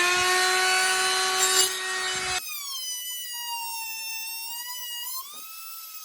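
Handheld power tool working on the boat, its motor whining steadily over rough cutting or grinding noise. About two and a half seconds in, the noise drops away, leaving a quieter, higher, wavering whine, which steps up in pitch again near the end.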